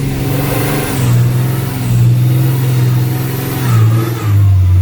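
Mega truck's engine running while driving, heard from inside the cab. Its steady drone steps down in pitch about a second in and twice more near the end.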